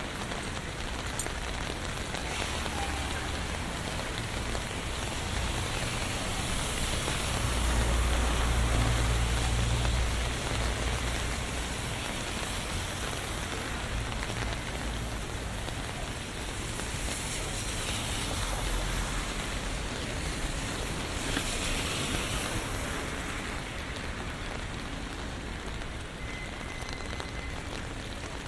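Steady rain falling on a city street, heard from beneath an umbrella. About eight seconds in, a low rumble swells for a couple of seconds and fades.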